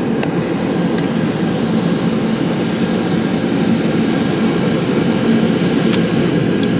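Steady low hum heard inside the cabin of a 2006 Lincoln Town Car with the car running, even in level throughout.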